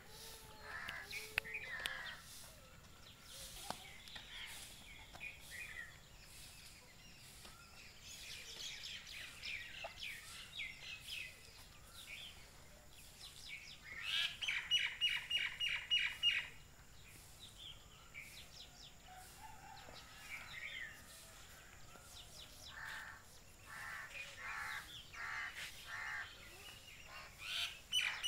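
Small birds chirping and calling on and off. About halfway through, and again near the end, a bird gives a fast run of repeated high notes.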